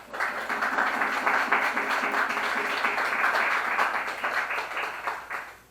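Audience applauding and clapping in a small room, dying away near the end.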